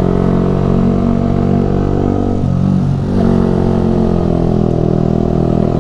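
Yamaha R15 V3's single-cylinder engine running steadily through a Ronin Musashi aftermarket exhaust while the bike is ridden. Around the middle the engine note dips briefly and then picks up again.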